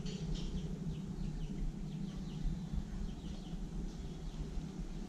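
Faint, short bird chirps scattered over a steady low outdoor hum.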